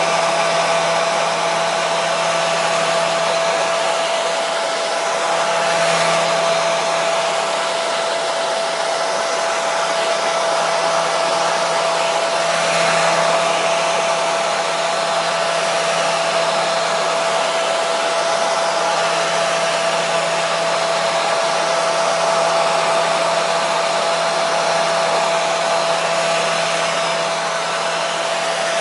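Hair dryer running continuously, a steady airy rush with a constant motor whine held at one pitch.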